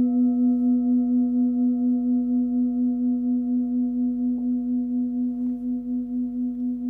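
Forged singing bowl tuned to the note B (si), the last bowl of a seven-note set, ringing on after being sounded. Its one clear note with higher overtones wavers gently in loudness and slowly fades.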